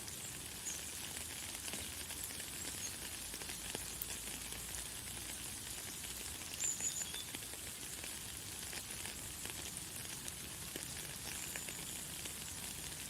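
Light, fine rain falling steadily as an even crackling patter, with a few brief high bird chirps, the clearest about halfway through.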